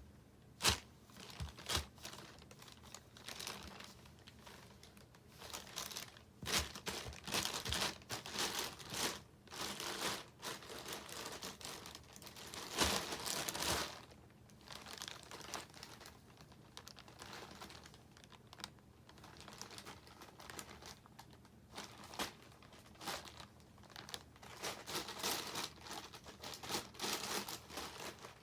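Crinkly wrapper being batted and rustled by a playing cat, crinkling in irregular bursts with a few sharp clicks about a second in.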